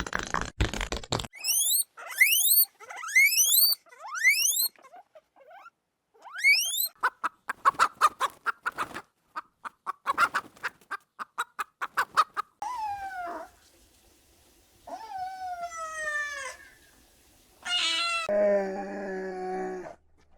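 A string of different animal calls following one another: a few quick rising chirps, then a fast run of clicks, then falling cries and a held, buzzy call near the end.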